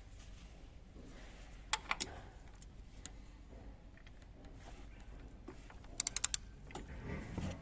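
Faint clicks and clinks of hand tools and engine parts being handled: a few clicks about two seconds in, then a quick run of about five clicks about six seconds in, with low handling noise building near the end.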